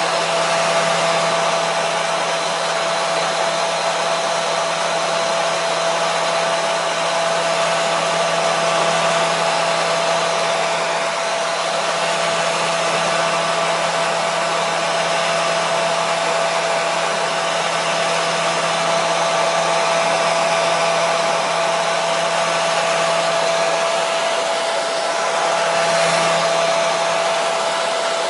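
Hair dryer running steadily: an even rush of blown air with a constant motor whine, used as white noise to soothe a colicky baby.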